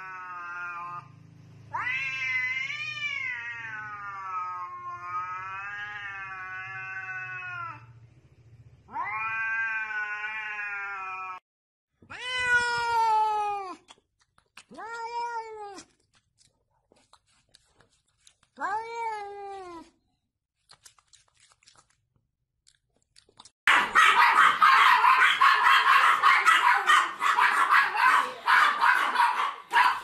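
Cat yowling in long, wavering, drawn-out calls, then three short rising-and-falling meows. Near the end a loud, harsh, rasping noise takes over.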